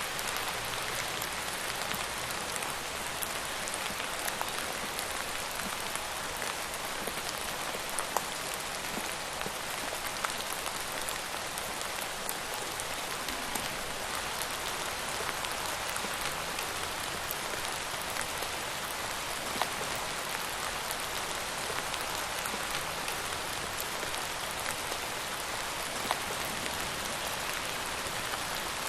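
Steady rain falling on a surface, an even hiss with scattered individual drop ticks, a few sharper single drops standing out now and then.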